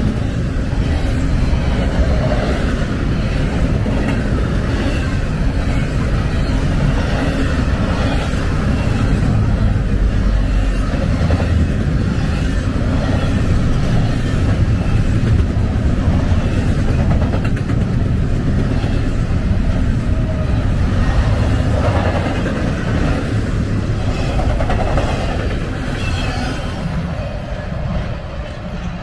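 Double-stack intermodal freight train's well cars rolling past close by: a steady rumble of steel wheels on rail with faint regular clicks over the rail joints, fading over the last few seconds as the train draws away.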